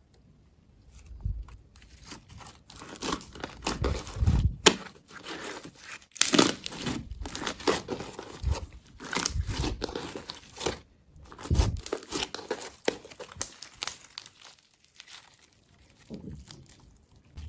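Slime being pressed, squeezed and stretched by hand, giving rapid runs of small clicks and pops in irregular bursts with short pauses between them.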